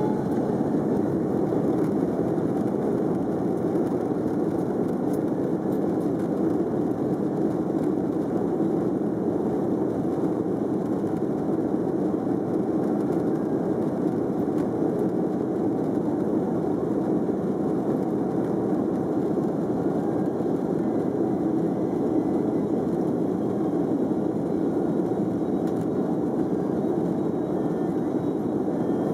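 Airbus A330-300 cabin noise: a steady drone of the jet engines and rushing air, unchanging in level, as heard from inside the cabin while the airliner climbs after takeoff.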